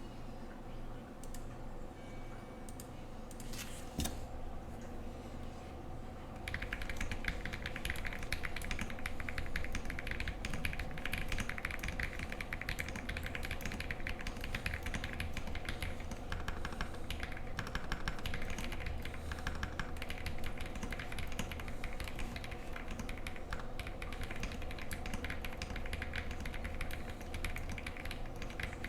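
Typing on a Monka 3067 mechanical keyboard with factory-lubed KTT Coconut Latte switches and Cherry-profile keycaps: a few isolated keystrokes, then fast, continuous typing from about six seconds in. A steady low hum runs underneath.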